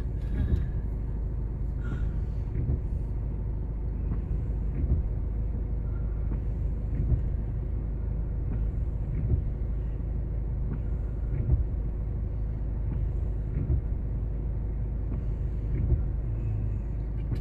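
Steady low rumble of a vehicle engine idling, heard from inside the car's cabin, with a few faint ticks here and there.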